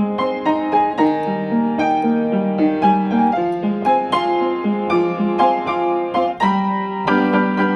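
Solo piano music: a gentle melody of notes struck every quarter to half second over sustained chords, with a fuller chord about seven seconds in.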